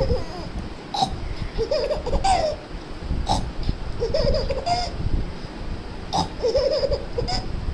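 A baby laughing in short bouts of rapid giggles, three or four bursts a couple of seconds apart, over a low rumbling noise.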